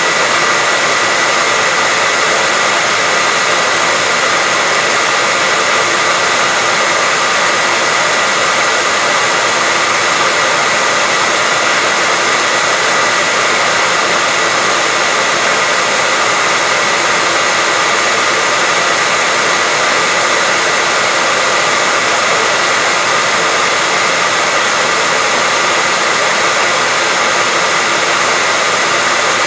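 Electric hair dryer running steadily: a constant airy rush with a high whine held on one pitch, unchanging throughout.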